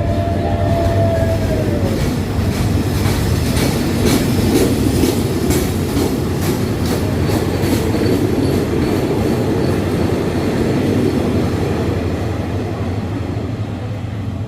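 Train running past on the track: a steady heavy rumble with repeated wheel clacks over the rail joints, easing slightly near the end.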